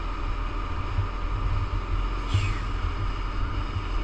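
Gravel truck's diesel engine running steadily with a low rumble. A short falling hiss comes a little over two seconds in.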